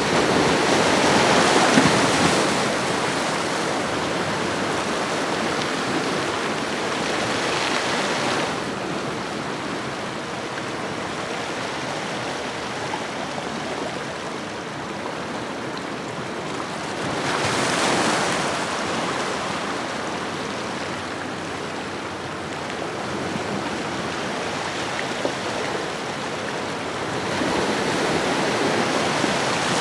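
Ocean waves breaking and washing up a shoreline: a steady rush of surf that swells four times, about two, eight and eighteen seconds in and again near the end, and eases back between.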